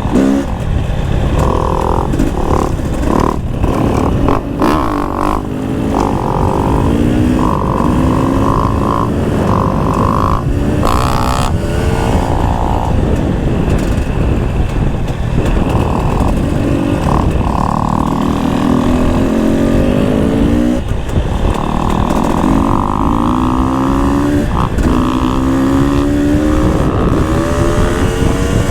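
Enduro dirt bike engine under way, revving up and shifting again and again, its pitch climbing then dropping with each gear change, over a steady rush of wind and terrain noise.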